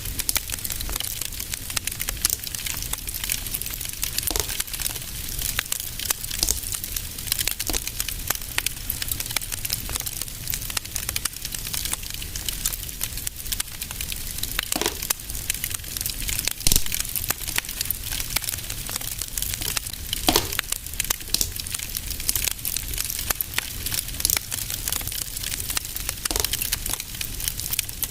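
Fire in a fireplace crackling steadily, with a few louder pops and a low rumble beneath.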